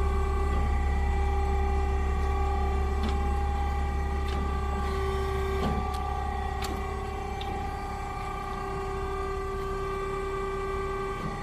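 Amada Promecam HFB press brake's hydraulic pump and motor running, a steady whine over a low hum, with a few light clicks partway through; the whine drops out near the end.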